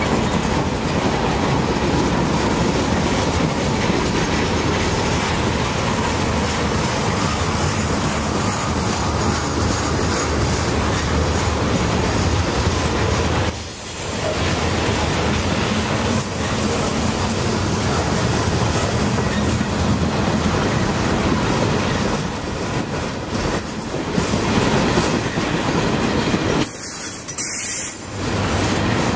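Freight train cars rolling past at close range, a steady noise of wheels running and clattering over the rails. There are short breaks about 14 seconds in and near the end, where the recording jumps.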